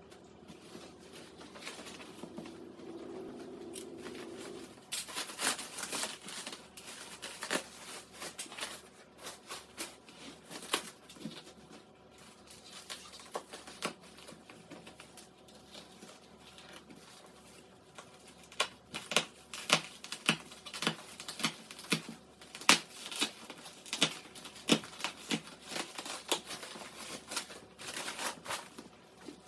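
Packaging being handled and unwrapped: crinkling, tearing and rustling with many sharp clicks and knocks, growing busier and louder in the last third.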